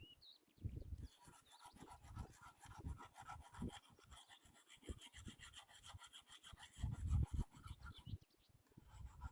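Outdoor pond ambience: gusts of wind rumbling on the microphone, a bird's short chirps near the start, and a fast, even, high ticking trill from about a second in until near the end.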